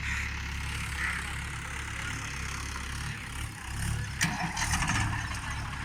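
Tractor's diesel engine running steadily at a low pitch, dipping briefly about three and a half seconds in, with a sharp click about four seconds in followed by a fast rattle.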